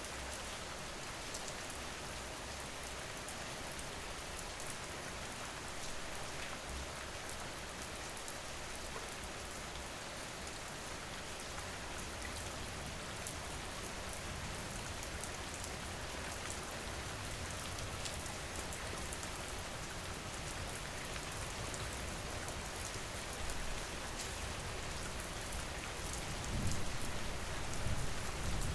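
Steady rain falling, an even hiss full of small drop ticks. A low rumble swells over the last few seconds.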